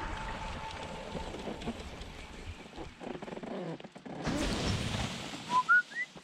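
A small propeller engine's note dies away over the first second or so, leaving soft wind noise and a few faint knocks. About five and a half seconds in, a person starts whistling: three short notes, each higher than the last.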